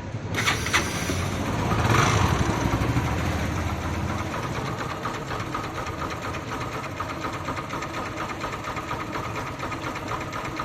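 Bajaj Pulsar NS160's single-cylinder engine running, picking up briefly about two seconds in, then settling to a steady run with a rapid, even ticking. This is the abnormal engine noise the owner is showing.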